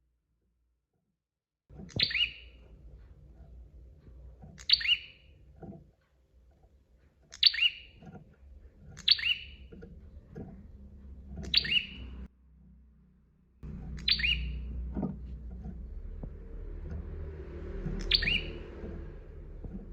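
Prinia (prenjak) calling: seven short, sharp chirps a few seconds apart, each dropping quickly in pitch, over a low background rumble.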